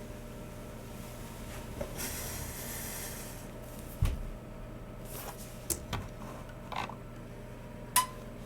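Objects being handled on a desk: a soft rustle, then a single dull thump on the desk, followed by a handful of separate sharp clicks and knocks a second or so apart, over a steady low hum.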